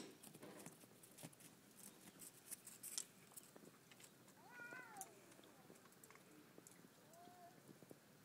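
Faint cat cries: one pitched call that rises and then falls about halfway through, and a shorter call near the end, over scattered faint clicks.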